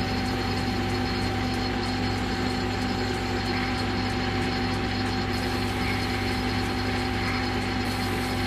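Manual lathe running at a steady speed while turning a brass workpiece: an even machine hum with a few steady whining tones over a hiss.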